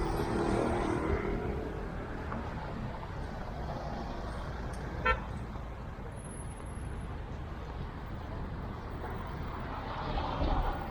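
Steady road traffic noise from passing cars and motorbikes, with one brief horn toot about halfway through.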